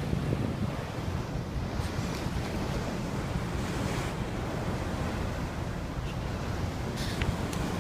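Wind buffeting the microphone over the steady rush of open sea water beside a sailing boat, with a couple of short splashes near the end.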